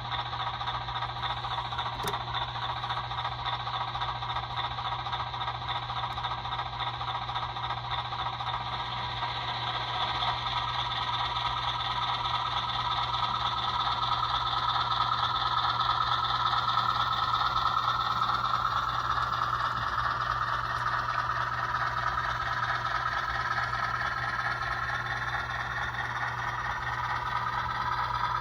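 HO scale model 44-ton diesel switcher running under its sound decoder, which plays a diesel engine note that builds up louder and higher about a third of the way in, then eases off slightly.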